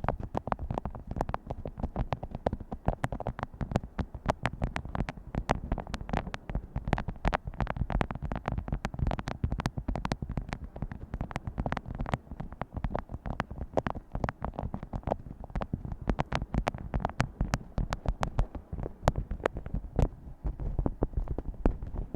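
Fingers tapping on objects, several quick, irregular taps a second.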